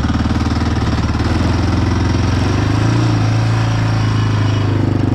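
Yamaha Raptor quad's single-cylinder four-stroke engine under throttle, the revs climbing about a second and a half in and then held high, as the ATV tries to drive forward while stuck in loose snow.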